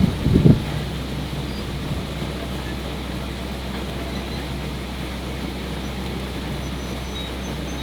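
A steady low engine hum, with a loud knock about half a second in.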